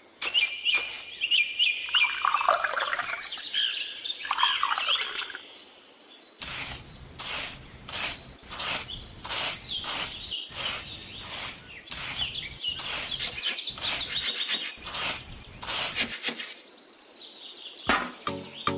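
Birds chirping and calling, with quick high trills. From about six seconds in, a steady series of sharp knocks or taps, roughly two a second, runs under the birdsong.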